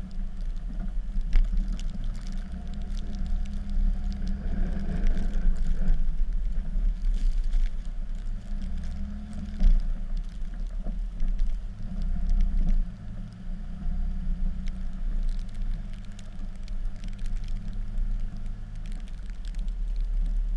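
Dodge pickup's Cummins inline-six turbo-diesel engine running while the truck plows snow, its pitch shifting up and down several times, with a sharp knock about ten seconds in.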